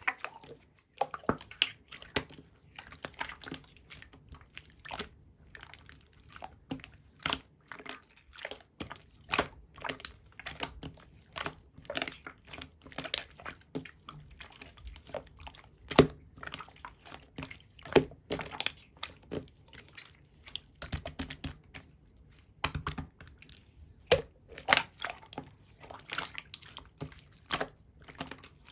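Clear slime being squished and pressed by hand, giving a run of sticky clicks and bubble pops at irregular intervals.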